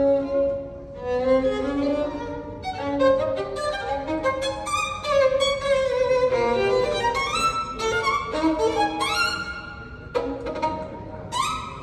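Recorded violin music, a bowed melody with sliding notes, played back through a high-end hi-fi loudspeaker system.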